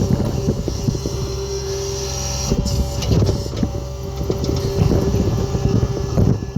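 Skid steer working: a steady engine drone with a held tone over it, broken throughout by scattered knocks and clanks.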